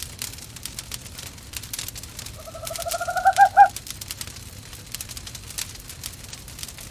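An owl gives one quavering call that rises slightly in pitch and grows louder over about a second and a half, starting a little after two seconds in. Underneath, a wood fire crackles and pops steadily.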